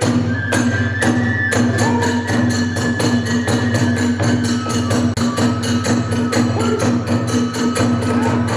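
Kagura hayashi ensemble playing: a fast, even beat of drums and clashing hand cymbals, about five strokes a second, under a bamboo flute holding a long high note.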